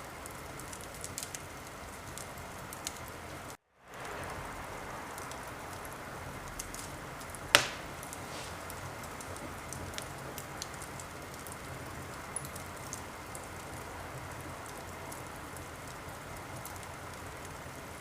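Wood fire burning in a fireplace: a steady hiss with scattered small crackles and one loud sharp pop about seven and a half seconds in. The sound cuts out completely for a moment about three and a half seconds in, then fades back.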